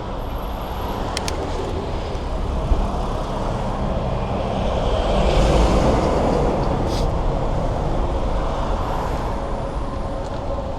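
Road traffic heard from a moving bicycle, with steady low rumble. A vehicle passes, its noise swelling to a peak about five to six seconds in and then fading.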